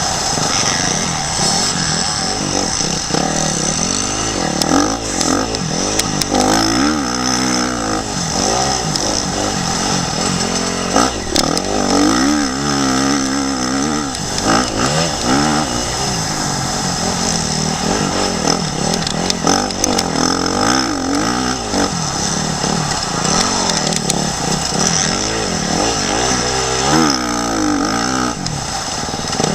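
Motocross bike engine revving up and down repeatedly as it is ridden hard, its pitch rising and falling again and again, with a steady rush of wind noise on a helmet-mounted camera.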